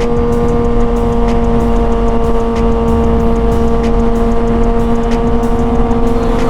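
Kawasaki ZX-6R's 636 cc inline-four running at a steady, high engine speed while cruising, its note holding one pitch with no shifts, under wind rush on a helmet-mounted microphone.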